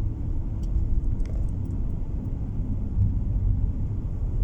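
Steady low rumble of a car driving on the road, heard from inside the cabin: engine and tyre noise, with a few faint ticks about a second in.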